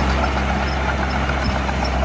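Diesel engine of heavy earthmoving equipment running steadily, a deep, even engine drone.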